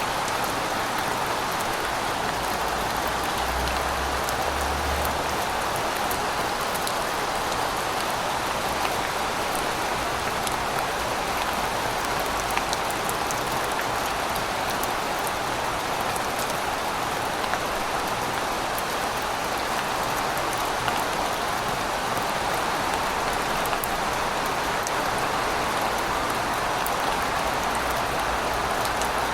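Steady rain falling, an even hiss with many small drop ticks and an occasional louder drip.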